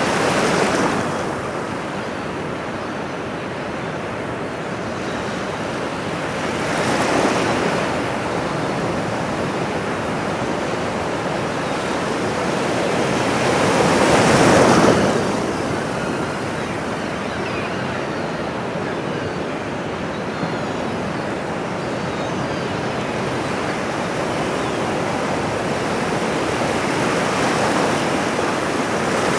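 Ocean waves washing onto a shore: a steady rush of surf that swells as a wave breaks every several seconds, the biggest surge about halfway through.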